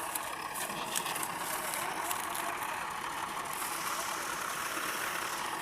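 Tractor diesel engine running steadily, with short high clicks and rattles scattered through it.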